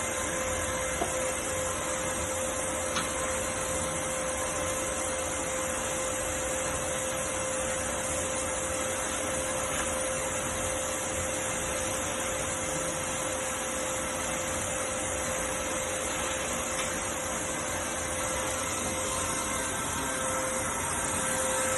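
Skyvac industrial vacuum cleaner running steadily: a constant motor whine over a rushing hiss of air.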